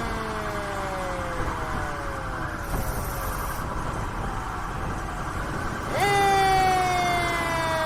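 Fire truck siren of the wind-up mechanical kind, its pitch sliding slowly down as it coasts. About six seconds in it is spun up again with a sharp rise, then begins another slow fall, over the low running of the truck's engine.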